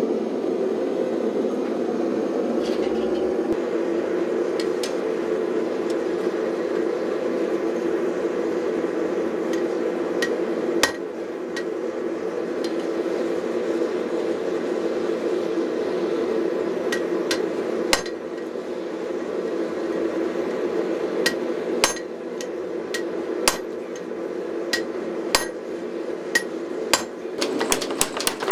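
Hammer blows on hot steel at the anvil: scattered single sharp, ringing strikes, mostly one to two seconds apart, over a steady drone of shop equipment. Right at the end a fast, even run of blows begins.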